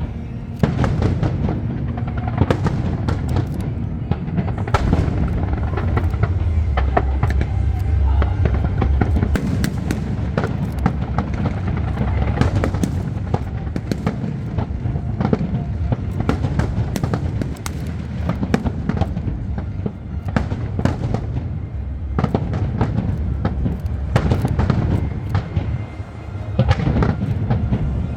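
Aerial fireworks display: a dense, continuous barrage of bursts and crackling with a deep rumble of booms underneath, with music playing along.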